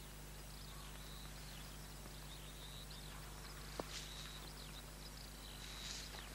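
Faint birdsong: short high chirps and a thin held whistle, over a steady low hum, with one sharp click about four seconds in.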